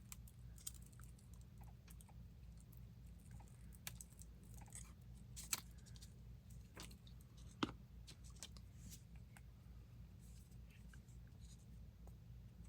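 Faint handling sounds of paper craft materials: scattered light clicks and rustles, with two sharper clicks about five and a half and seven and a half seconds in, over a low steady hum.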